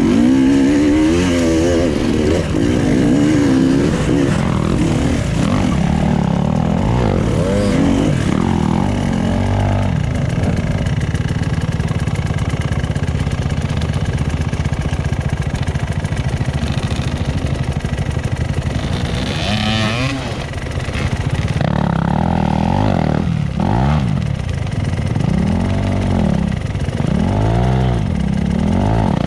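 Enduro motorcycle engine revving up and down as it is ridden off-road, the pitch rising and falling again and again, with a steadier stretch at constant revs in the middle.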